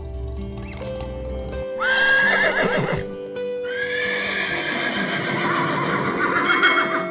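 Two pitched, wavering animal calls over background music: a shorter one a little under two seconds in, then a longer one that runs on until near the end.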